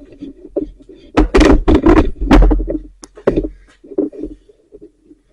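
Handling knocks and thumps, heaviest in a quick cluster about a second in, then a few lighter knocks near the end; no power tool is running.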